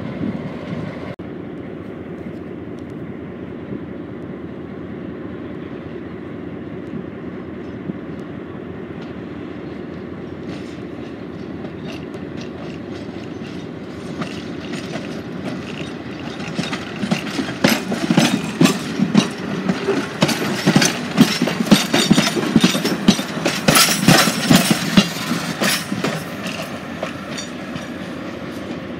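Train passing close by on jointed track: a steady hum, then from about halfway the wheels clicking rapidly over the rail joints, loudest in the second half and easing off near the end.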